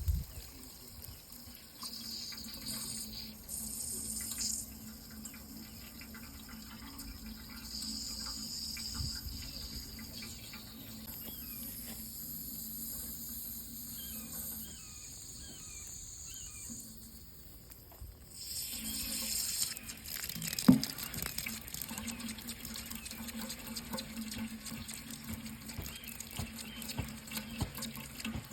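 Water running from a tap into a sink, a steady rushing flow that dips briefly a little past halfway and comes back. A single sharp knock about two-thirds of the way through.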